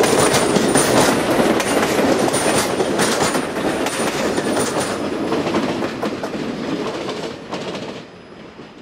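Railroad passenger cars rolling past close by, the wheels clacking over the rail joints with a faint high squeal now and then. The sound drops away near the end as the last car passes.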